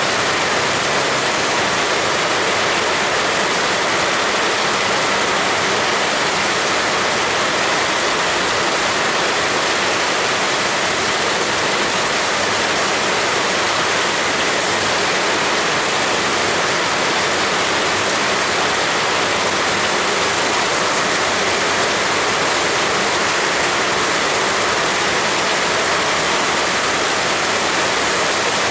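Heavy rain falling: a loud, dense, unbroken hiss that stays even throughout.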